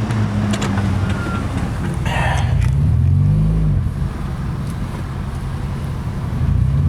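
Car engine running, its pitch rising and falling twice as it accelerates and eases off, about 3 seconds in and again near the end.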